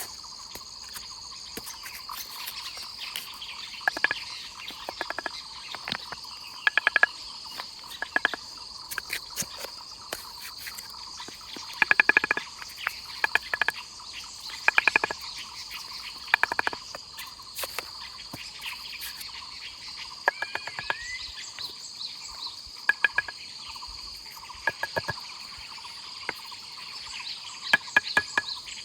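Insects chirring steadily in a high, even drone, overlaid by frequent sharp knocks and clicks in irregular clusters, which are the loudest sounds.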